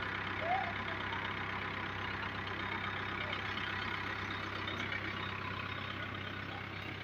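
Diesel engine of a heavy machine idling steadily, an even low hum.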